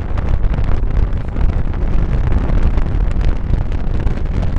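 Steady low rumbling noise of air buffeting the microphone.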